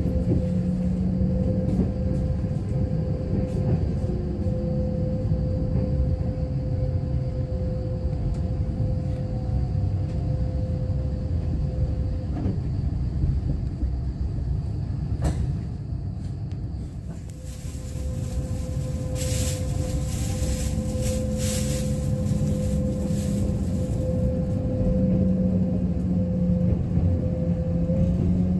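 Kintetsu limited express electric train running, heard from inside the passenger car: a steady rumble of wheels on rail with a steady whine that fades about halfway through and comes back. A spell of hiss sets in a few seconds after the whine returns.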